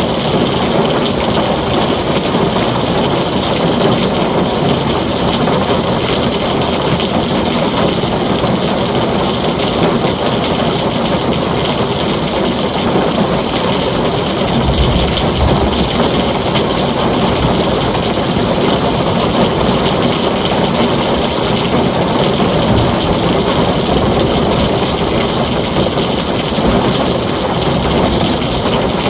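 Heavy rain pouring steadily on a tin roof. There is a brief low rumble of thunder about halfway through.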